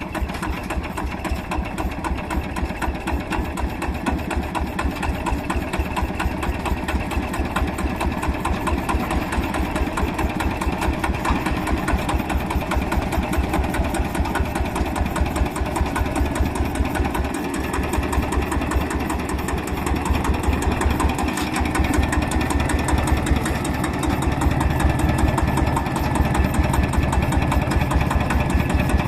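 Vintage stationary engine (a Japanese kerosene-type 石油発動機) running steadily with an even, rapid beat.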